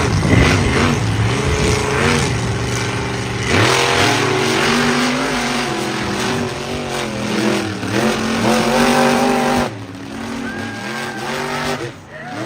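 Monster truck engine revving hard, its pitch climbing and falling again and again, then dropping off sharply about ten seconds in.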